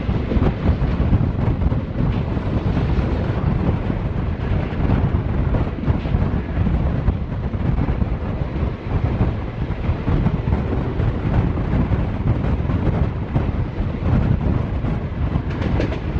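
Diesel-hauled express train running at speed, heard from on board: a steady, deep running noise of the wheels on the rails.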